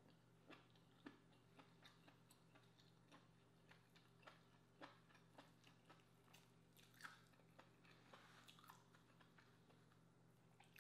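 Faint chewing of soft cooked lobster meat: scattered wet mouth clicks and smacks, over a low steady hum.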